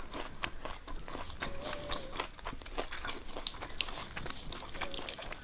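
Close-up chewing of meat-filled pierogi dumplings: a run of wet mouth clicks and smacks, with a short hummed 'mmm' about one and a half seconds in.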